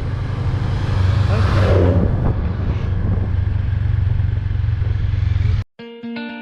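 Vehicle ride recorded on the move, most likely a motorcycle: steady engine and wind rumble on the microphone, with a louder swell about two seconds in. It cuts off suddenly near the end, and plucked guitar music starts.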